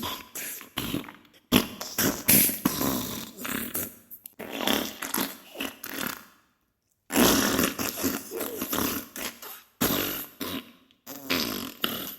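Diarrhea sound effect: a run of farting bursts, crackly and broken by short gaps, with a silent pause of about a second near the middle.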